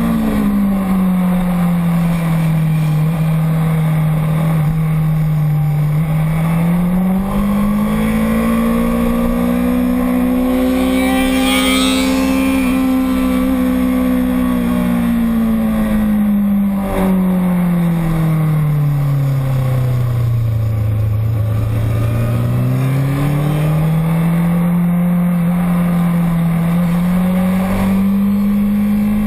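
A motorcycle engine running without a break at track speed, its note rising and falling slowly and smoothly as the bike speeds up and slows. It drops lowest about two-thirds of the way through, then climbs again.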